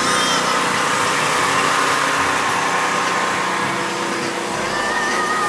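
A truck engine running steadily. A few short wavering high tones come in near the end.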